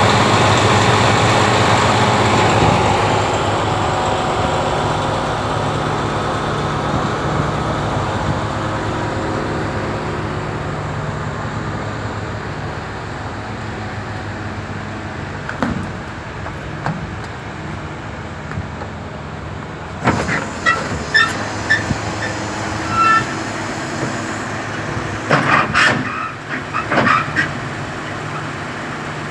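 Diesel engine of a MAN TGS 35.360 truck running steadily, its sound slowly fading over the first half. In the last third come a series of sharp clanks and knocks.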